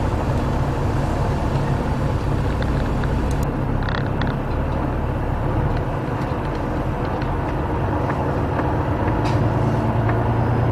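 Heavy truck's diesel engine running steadily, with a low hum that grows a little louder near the end.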